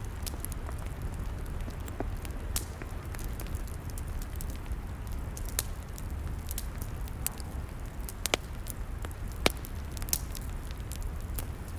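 Log fire crackling, with irregular sharp pops and snaps over a steady low rumble. Two louder pops come near the end.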